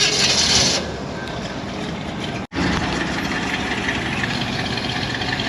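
A car engine idling steadily under outdoor background noise. The sound cuts out for an instant about two and a half seconds in.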